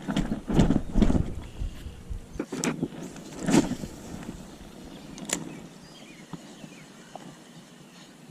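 Handling noise: several thumps and rustles in the first four seconds, a single sharp click about five seconds in, then a quieter outdoor background.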